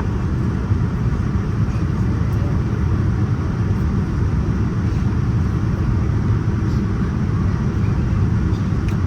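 Steady cabin noise inside a Boeing 787-9 airliner: a continuous low rumble of airflow and its Rolls-Royce Trent 1000 engines, even in level throughout.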